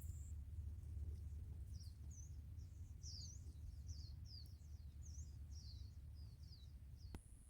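A bird singing a quick run of short, high chirps, about three a second, over a low rumble, with a single click near the end.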